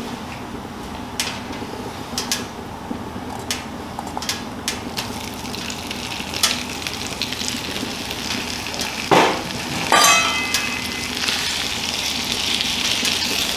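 Hot oil sizzling with scattered sharp pops on a flat-top griddle. About nine seconds in, sliced bell peppers and onions are tipped from a stainless steel bowl onto it with a thud and a ringing clink of the bowl, and the sizzle grows louder as the vegetables start to sauté under a metal spatula.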